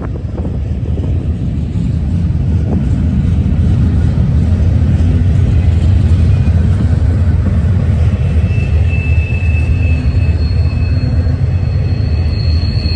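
Freight train cars rolling past on the rails: a loud, steady low rumble of wheels on track. About eight seconds in, a high thin squeal joins it, then a higher one near the end.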